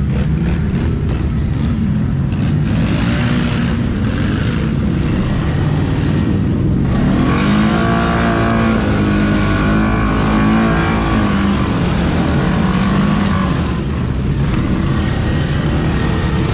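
ATV engine running hard under load in mud, revving up and down most strongly between about seven and eleven seconds in.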